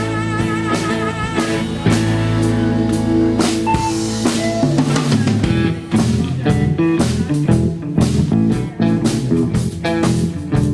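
Live rock band playing an instrumental passage on drum kit, guitar and bass. It opens with held chords and wavering guitar notes, and the drumming grows busier from about four seconds in.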